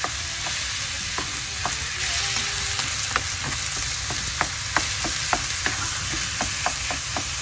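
Minced chicken sizzling in hot oil in a frying pan, with a spatula scraping and tapping against the pan at irregular intervals as the mince is broken up.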